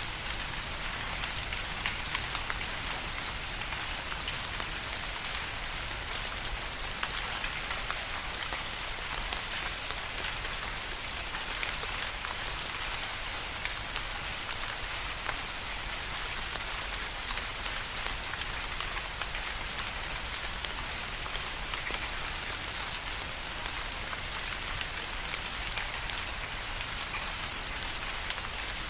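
Steady rain falling on a surface, an even hiss dotted with the patter of individual drops.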